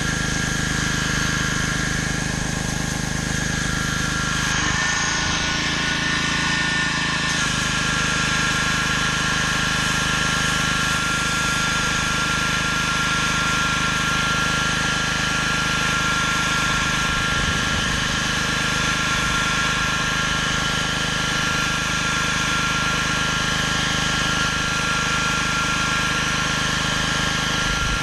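Gas-engine pressure washer running steadily under load, with the hiss of high-pressure water spraying on concrete. Its tone shifts briefly about five seconds in.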